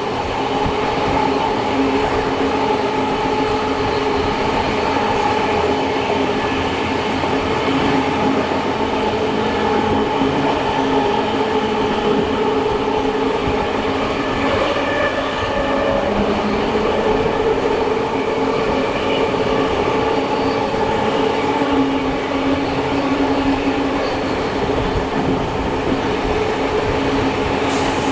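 A steam-hauled heritage train running along the track, heard from its carriages: a loud, steady rolling rail noise with a few steady ringing tones over it.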